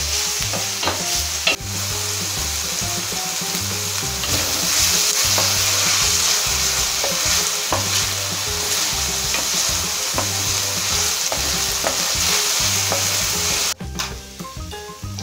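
Diced onion, garlic and red pepper sizzling in olive oil in an enamelled paella pan over high heat, with a wooden spoon stirring and scraping through them. The sizzle drops away suddenly near the end.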